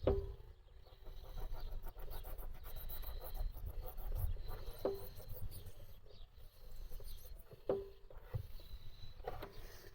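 Three sharp knocks or clicks, each with a brief ring, at the start, about halfway, and near the end, over a low handling rumble.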